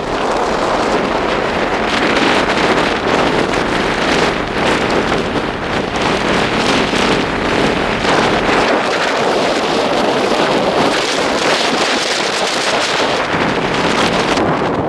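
Loud, unbroken rush of air through an open car window while the car is moving, wavering a little in strength.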